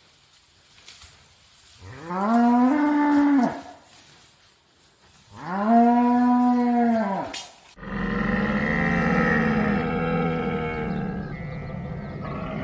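Cow mooing: two long calls, each rising and then falling in pitch. A few seconds later a different, dense continuous sound cuts in abruptly and lasts to the end.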